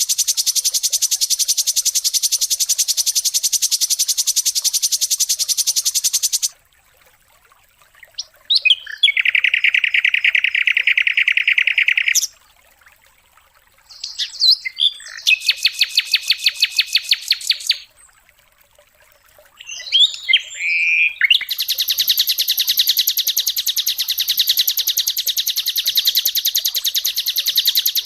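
Songbird training recording (masteran): a small bird singing in long phrases of very fast, buzzing trills, four phrases in all, each a few seconds long, with short pauses between them.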